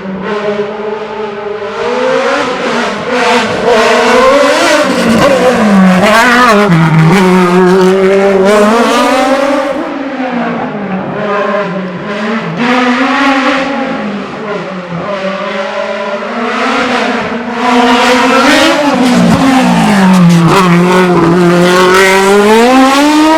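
Racing car engine run hard through a slalom course, its pitch repeatedly climbing under acceleration and dropping as the throttle is lifted.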